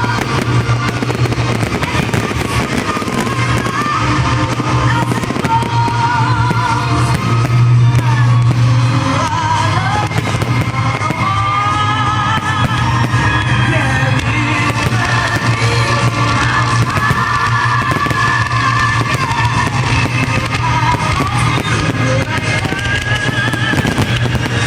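Fireworks display going off continuously, dense crackling and popping, over loud music with a steady bass played for the show.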